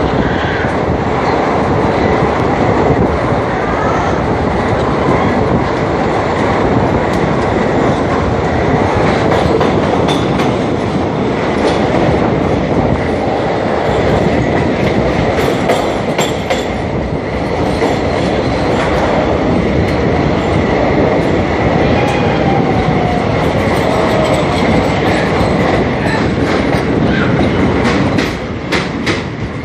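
Passenger train running on its rails: a steady, loud rumble of wheel and track noise. Near the end the noise dips briefly and there is a quick run of sharp clicks.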